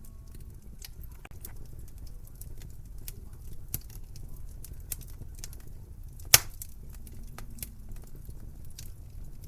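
Wood fire crackling in a fireplace: irregular small snaps and pops over a low steady rumble, with one sharp, much louder pop about six seconds in.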